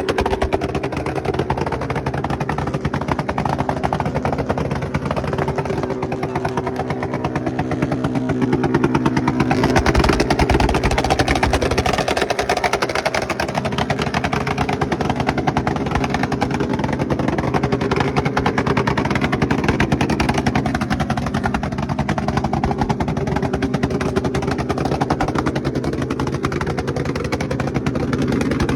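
Motorcycle engine running steadily, growing louder for a couple of seconds about ten seconds in.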